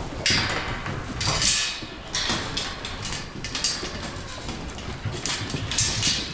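Goats and sheep jostling and eating grain at their feed bowls: irregular scuffs, rattles and crunches in quick succession.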